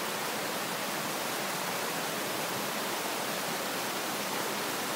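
Woodland stream rushing steadily, an even wash of water noise with no breaks.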